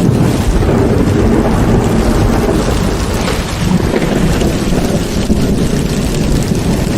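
Heavy rain pouring steadily, with a low rumble of thunder under it.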